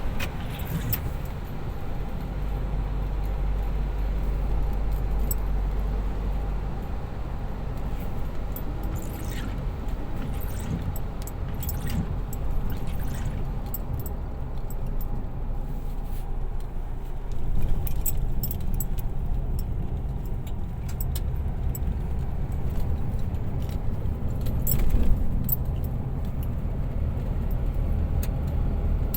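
Light rain: scattered drops ticking sharply on a nearby surface over a steady low rumble.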